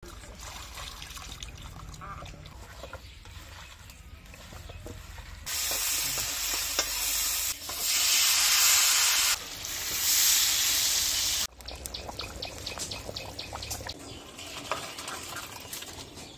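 A run of cooking sounds: water poured over raw pork pieces in a steel bowl, then loud, steady sizzling of food frying in hot oil in a wok for about six seconds, then thick curry poured and scraped out of the wok into a steel bowl with small clinks.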